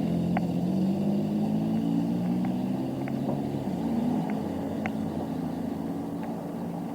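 A motor vehicle's engine running close by, its pitch drifting as the sound slowly fades, with a few faint high ticks over it.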